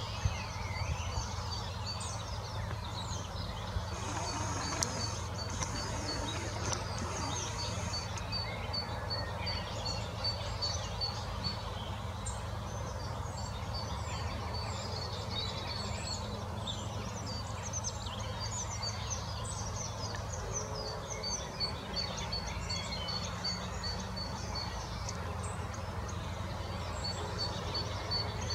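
Several wild birds singing and calling, one of them repeating a short high note at an even pace for long stretches, over a steady low rumble.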